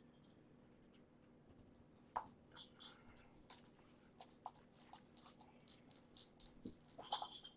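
Near silence: quiet room tone with faint, scattered soft clicks and rustles, a few more of them toward the end.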